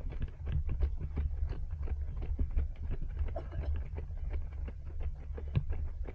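Running footsteps of a group of joggers slapping on pavement in a quick, uneven patter of several strikes a second, over a steady low rumble of wind and motion on a body-worn action camera.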